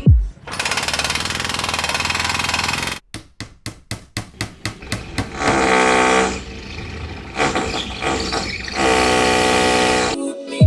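Work noise from a room being cleared out and rebuilt: a steady rushing noise for a couple of seconds, then a quick run of sharp knocks, then a power-tool-like motor whine in two stretches, each about a second long.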